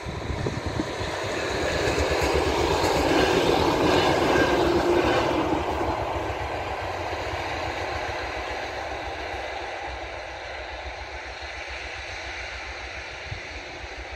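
A train passing over the level crossing, growing louder to a peak about four seconds in and then slowly fading as it moves away.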